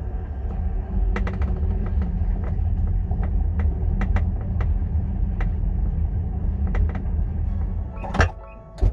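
Road and engine rumble inside a moving Nissan X-Trail, with short creaks and clicks every second or so from the boot area: the plastic trim creak the owner calls a 'cricket'. Two louder knocks near the end.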